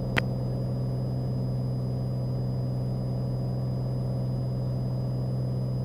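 Steady drone of a Cessna 182's piston engine and propeller at climb power, an even low hum with a faint high steady whine above it.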